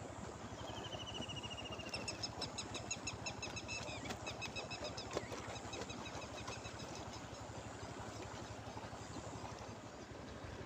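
A bird's rapid trill of short, evenly spaced high notes, starting about a second in and lasting about three seconds, over a steady low rumble.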